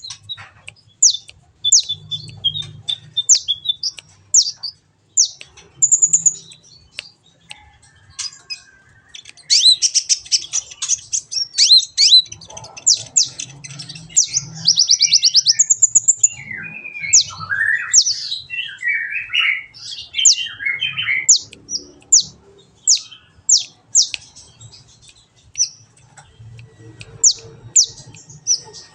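Kolibri ninja sunbird song used as a tutoring recording for caged birds: a run of quick, thin, high chirps and rapid trills with short pauses, and a stretch of lower, scratchier notes about halfway through.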